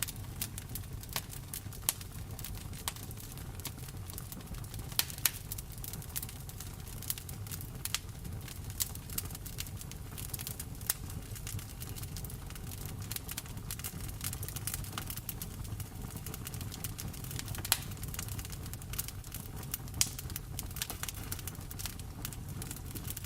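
Wood fire in a fireplace crackling, with frequent irregular sharp snaps and pops, a few of them much louder, over a steady low rumble.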